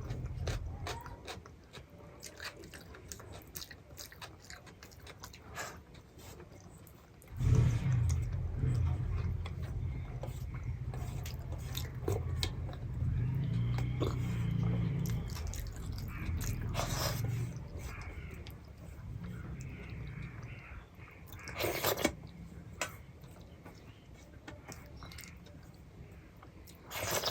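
Close-miked chewing and biting of food, with many small mouth clicks and a few louder sudden noises: one about a third of the way in, one about four-fifths in, and one at the very end.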